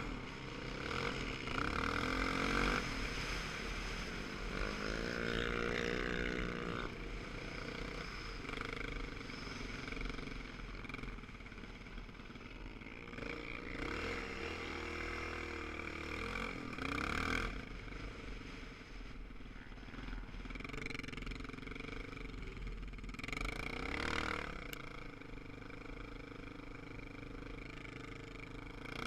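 Motorcycle engines running, rising and falling in pitch as the throttle is opened and closed several times.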